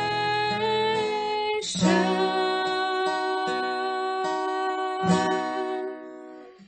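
Worship song: a voice singing the long, held word "creation" over strummed acoustic guitar, with a fresh strum about two seconds in and another about five seconds in. The music fades away near the end.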